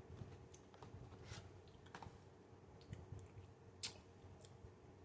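Near silence, with faint scattered clicks and soft low thuds of someone chewing food.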